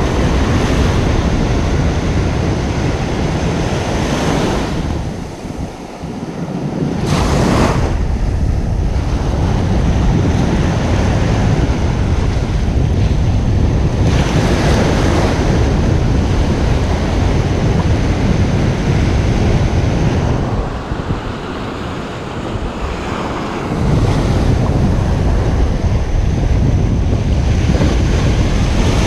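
Ocean surf breaking on a beach: a continuous wash of waves that eases off twice and swells back up as the next waves come in.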